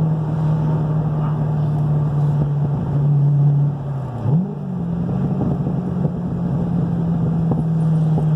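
Cammed 2010 Corvette Z06's 7.0 L LS7 V8 idling through a freshly fitted exhaust with factory mufflers while warming up to operating temperature. About halfway through, the idle dips briefly and picks back up, then settles steady again.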